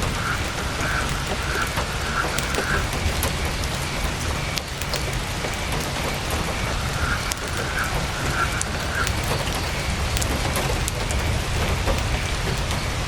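Heavy rain falling steadily on a tent, with a low rumble and scattered sharp clicks. A faint high note repeats in short runs near the start and again about halfway through.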